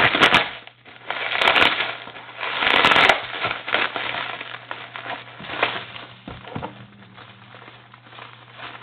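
Plastic bubble wrap being handled and pulled off a package, crinkling and rustling, with a few loud sharp crackles in the first three seconds, then quieter rustling.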